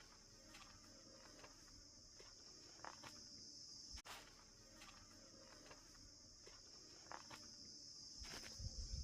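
Faint, steady high-pitched drone of insects, with scattered light ticks.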